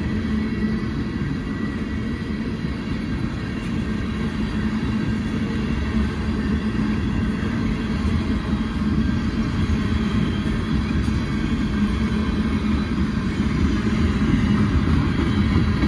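Freight train of tank cars rolling past: a steady rumble of steel wheels on the rails with a low steady hum, growing a little louder toward the end.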